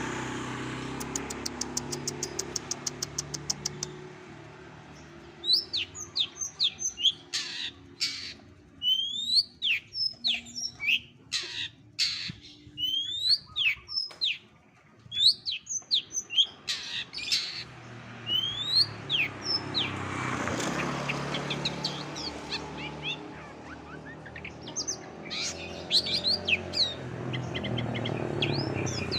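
Cendet (long-tailed shrike) singing a varied mimicking song: a rapid high trill at first, then a string of quick whistled sweeps and sharp chirps, pausing for a few seconds before chirping again near the end. A low hum runs beneath.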